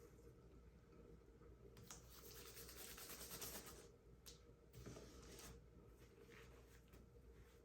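Faint rubbing hiss of a paint-covered canvas being spun to fling off excess pour paint, swelling about two to four seconds in, with a few short scrapes after it.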